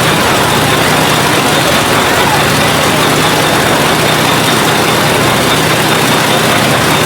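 A heavy engine running steadily at an even speed, with a dense mechanical din over it.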